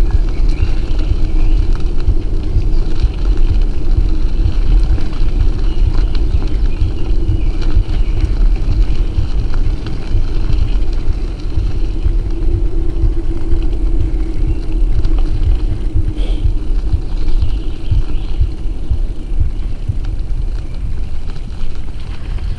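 Steady rumble while riding a Haro bicycle: tyre noise on the trail mixed with wind on the microphone.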